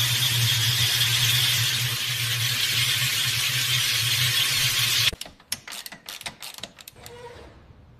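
A power tool running with a steady hiss over a low hum, which stops abruptly about five seconds in, followed by a quick run of sharp clicks for about two seconds.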